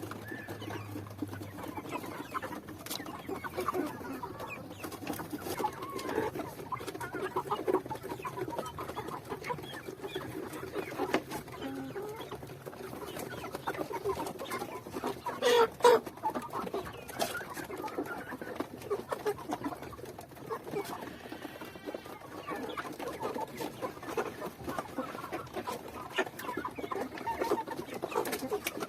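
A flock of chickens clucking, many overlapping short calls throughout, with one louder sound about halfway through.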